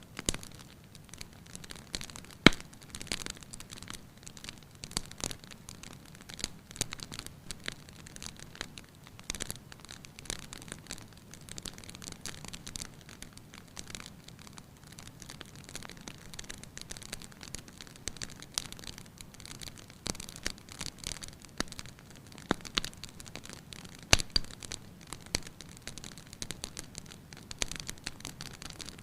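Wood fire crackling in a fireplace: irregular snaps and pops over a soft steady hiss, with two sharper pops, one a couple of seconds in and one near the end.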